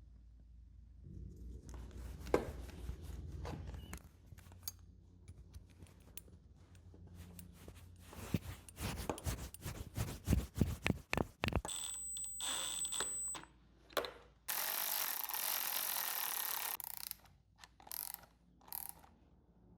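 Tools and small metal parts clicking and clinking during carburetor work on an outboard motor. About twelve seconds in there is a short, high, steady beep, followed by a hiss lasting a couple of seconds.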